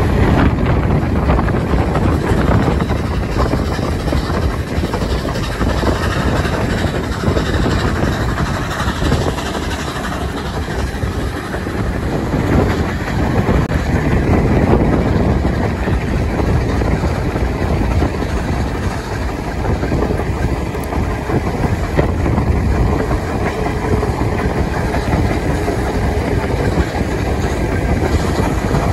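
Steam-hauled passenger train running along the line, heard from an open carriage window: a steady rumble of wheels on the rails.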